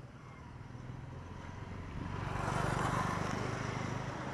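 A motor vehicle drives past close by: engine and tyre noise grow louder about two seconds in, peak, then ease slightly.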